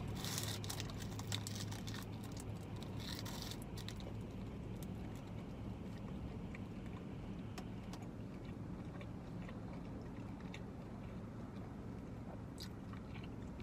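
Biting into and chewing a dry soft pretzel twist dipped in cream cheese frosting: a short crunchy rustle at the bite and again about three seconds in, then quiet chewing over a steady low hum.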